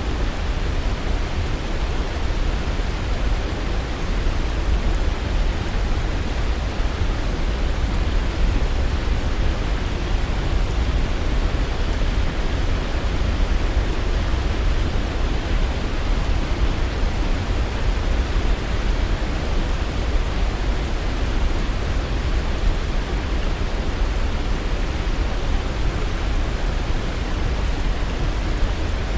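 Waterfall: water falling in a steady, unbroken rush, deepest in the low end.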